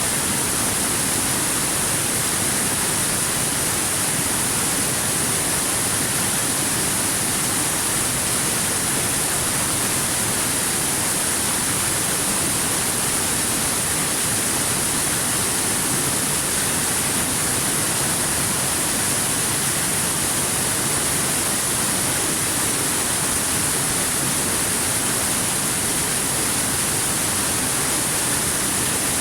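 Waterfall: falling water rushing in a steady, unchanging wash of noise, strongest in the high hiss.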